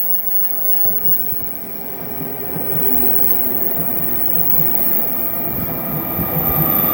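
A passenger train running on the rails at a station, its rumble getting steadily louder as it comes closer.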